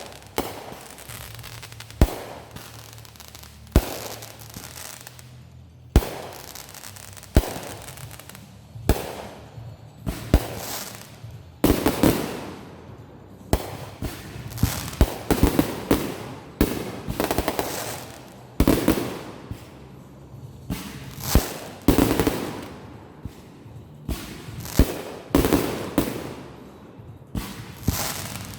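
Fireworks going off in a string of sharp bangs, about one every second and a half at first. From about ten seconds in they come faster and denser, with longer trailing bursts after each bang.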